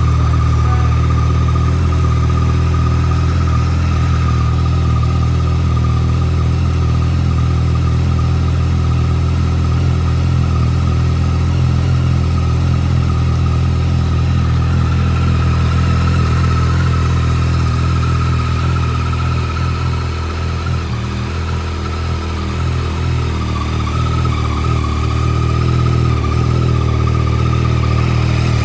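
Yamaha MT-09's 890 cc three-cylinder engine idling steadily just after a start, with a brief slight drop in level about two-thirds of the way through.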